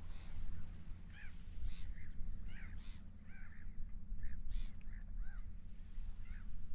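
Seagulls calling over and over in short, arched cries against a steady low rumble of wind and water.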